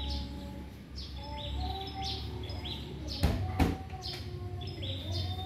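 Small birds chirping repeatedly, about two short high chirps a second, with two sharp knocks close together about three seconds in.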